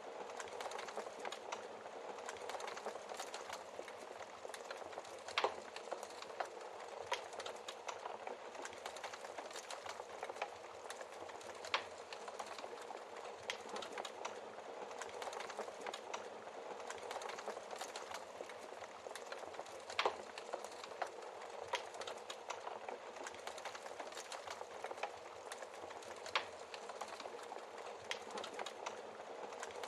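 Wood fire crackling in a fireplace: a steady hiss full of small crackles, with a few louder pops of the burning logs.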